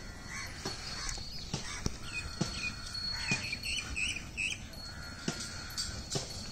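Small birds chirping, with a quick run of short chirps in the middle, over a faint steady high tone. Several sharp knocks come at irregular moments.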